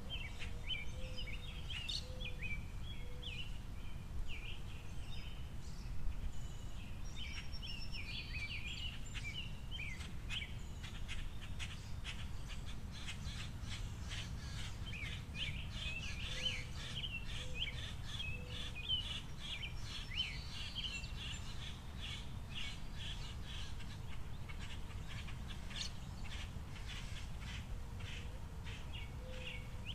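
Small birds chirping busily and repeatedly at a seed feeder, with many quick clicks mixed in, over a steady low outdoor rumble.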